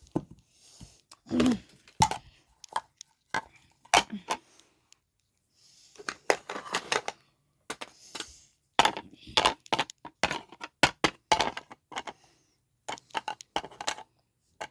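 Toy dishes and play food being handled: a scattered run of small clicks, taps and clatters, some with a short ring.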